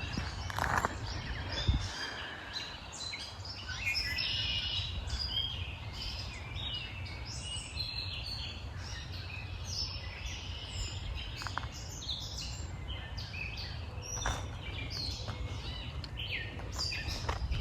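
Several wild birds singing and chirping in a woodland morning chorus, with short calls and song phrases overlapping throughout. A few footsteps knock near the start, over a steady low rumble.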